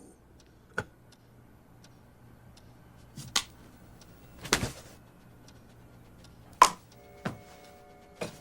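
A handful of short, sharp knocks and clicks, several seconds apart, over a faint steady hum; the loudest knock comes about two-thirds of the way in.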